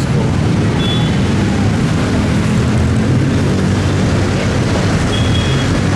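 Street traffic: motorcycle and other vehicle engines running close by in a steady, loud rumble.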